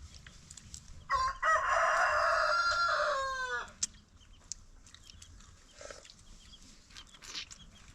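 A rooster crowing once. The single long call starts about a second in, lasts about two and a half seconds and falls in pitch at its end.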